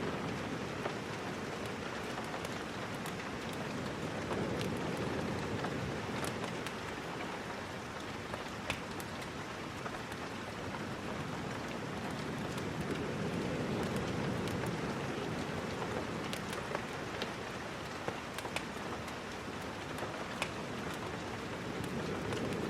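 Steady rain falling, slowly swelling and easing, with scattered sharp pops and ticks through it.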